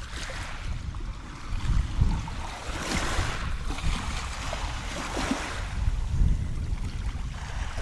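Ocean surf washing ashore, swelling twice, with wind rumbling on the microphone.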